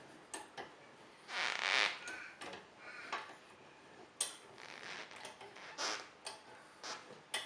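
Scissor-type motorcycle lift being wound up under a bike: irregular creaks and sharp clicks, with a longer rasping noise about a second and a half in.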